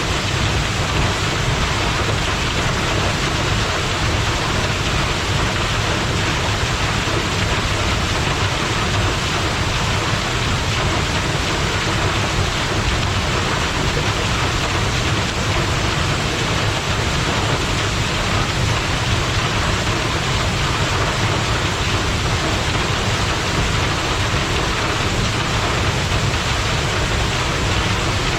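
Waterfall with a heavy flow of water pouring down, a loud steady rush with a strong low rumble.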